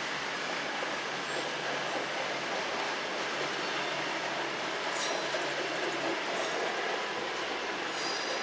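Virgin Trains passenger train rolling slowly over the station tracks, a steady rumble with brief high-pitched wheel squeals about five seconds in and again near the end.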